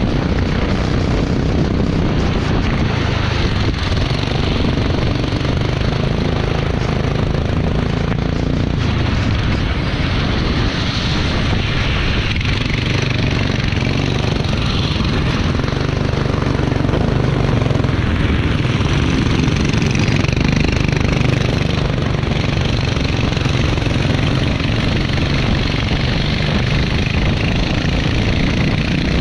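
Racing kart engine running continuously at speed, its pitch shifting only slightly, over a steady rushing noise from the wet track.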